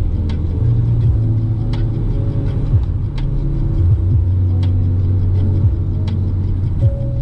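Peugeot Expert van's 1.6 turbo diesel engine and road rumble heard from inside the cab while driving, its low engine note shifting a few times. A faint tick comes about every second and a half.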